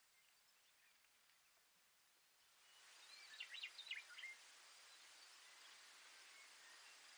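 Baird's sparrow singing once in a grassland field recording: a brief run of short, high, thin notes lasting about a second, a few seconds in, over a steady background hiss that comes up just before it.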